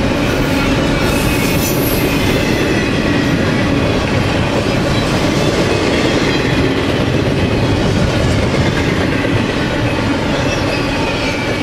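Double-stack container freight train cars passing at speed: a steady rumble and clatter of steel wheels on the rail, with thin, high squealing tones from the wheels running over it.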